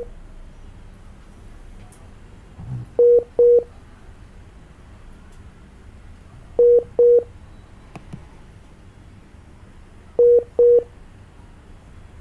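Telephone line tone: pairs of short beeps at one mid pitch, each pair repeating about every three and a half seconds, three times, over faint line hiss. There is a soft thump a little before the first pair.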